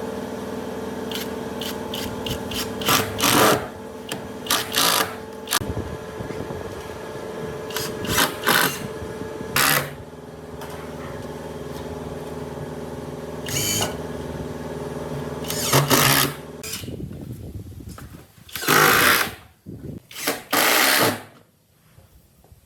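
A small electric power tool, a drill, running steadily, its motor note dropping about ten seconds in as if under load, with short loud scraping or knocking noises between. The motor stops near the end, followed by two louder noisy bursts.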